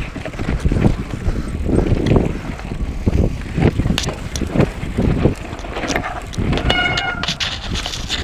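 Mountain bike riding over a rough, rocky trail: tyres rumbling and the bike rattling and clattering over bumps, with wind on the microphone. A brief high-pitched squeal comes about seven seconds in.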